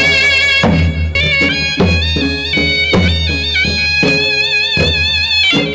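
Amplified Gujarati folk music for a Charani raas dance. A held melody with wavering pitch, on a wind instrument or something like one, plays over a steady drum beat and heavy bass, and cuts off near the end.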